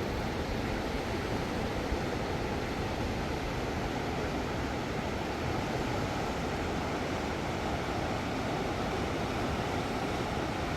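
Steady rushing of a flooded river, an even noise that does not let up.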